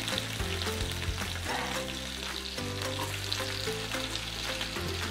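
Chopped onions and whole cumin seeds sizzling in hot oil in a wok, a steady crackling fry. Low steady tones sound underneath.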